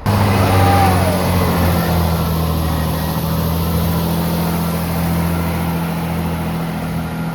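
Class 165 diesel multiple unit's engines running loudly under power as the train pulls away, with a high whine rising steadily in pitch. The sound starts abruptly.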